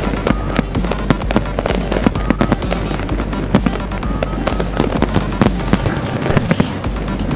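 Fireworks going off in a dense barrage of rapid crackles and bangs, with music playing underneath.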